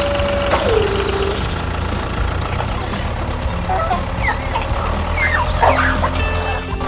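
A steady engine hum with bird calls over it: a swooping call about half a second in and a run of short clucking calls near the end.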